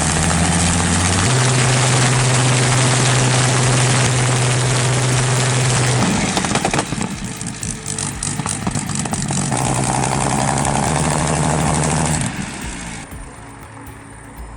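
Rolls-Royce Griffon V12 aero engine running loudly with a steady engine note that steps up in pitch just after the start. The sound changes about six seconds in, settles again, and falls away about twelve seconds in.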